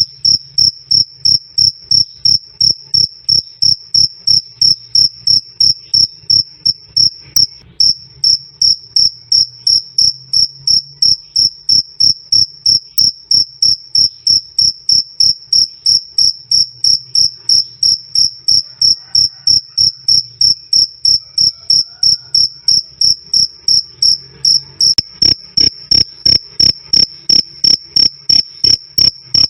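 A cricket calling: loud, clear chirps repeated in an even, steady rhythm of about three a second.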